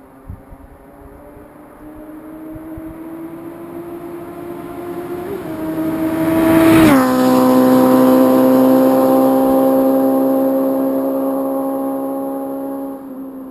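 Suzuki GSX-F 600 inline-four motorcycle accelerating toward the listener, its engine note climbing in pitch and getting louder. About seven seconds in it passes close by and the pitch drops sharply, then it holds a steady note as it fades into the distance.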